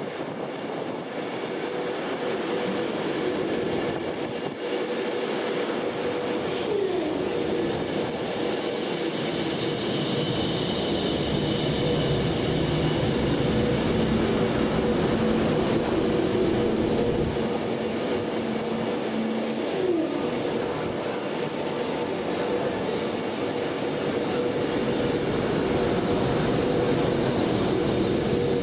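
Steady mechanical running noise with a continuous humming drone, and two short falling tones, one about a quarter of the way in and one about two-thirds of the way in.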